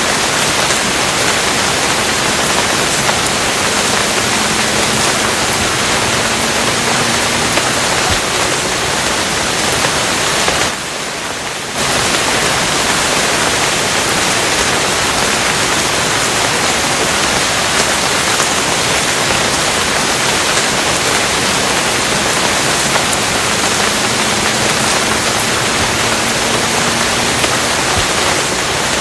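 Steady, heavy rain with an even hiss. It drops away briefly for about a second, some eleven seconds in, then carries on as before.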